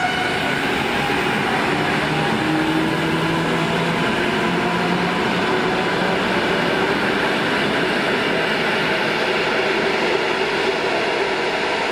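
EN57AL electric multiple unit pulling out and running past at close range: a steady rumble of wheels and running gear on the rails. A faint whine rises slightly about two seconds in.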